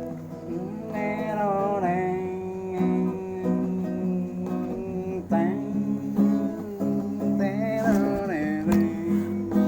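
Acoustic guitar strummed and played, holding chords, with a melody line over it that slides up and down in pitch, in the instrumental opening of a song.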